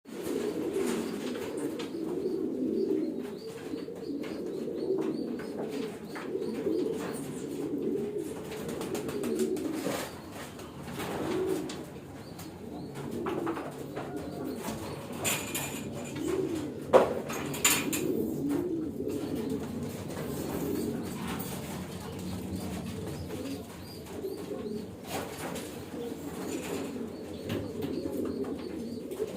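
A flock of homing pigeons cooing continuously in a loft, many overlapping coos, with scattered short clicks and one sharp knock about 17 seconds in.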